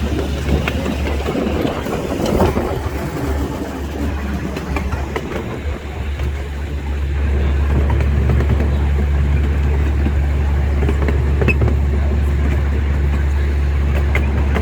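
Amusement-park train running, heard from a passenger car: a steady low rumble with some creaking, which grows louder about seven seconds in.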